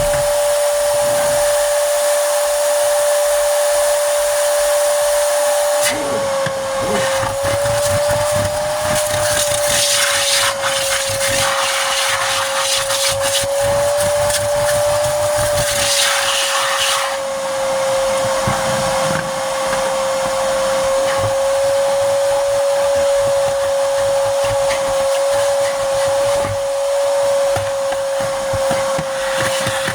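Vacuum cleaner running with a steady motor whine over a rush of air. About six seconds in the whine dips a little and wavers, and the airflow turns rougher, with bursts of hissing until about seventeen seconds as the nozzle works over surfaces.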